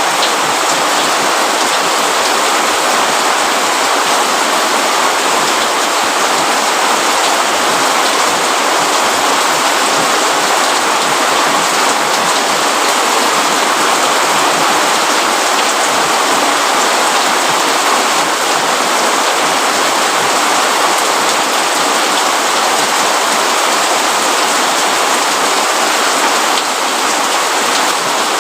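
Steady rainfall, the even hiss of rain falling on a roof and leaves, with no change in strength.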